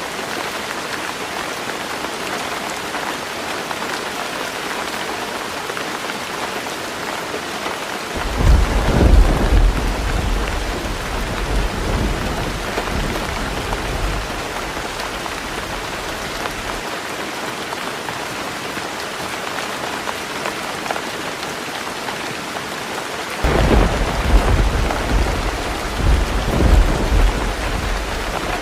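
Heavy rain drumming steadily on a tin roof, with two rolls of thunder rumbling low, one starting about a third of the way in and the second near the end, each lasting several seconds.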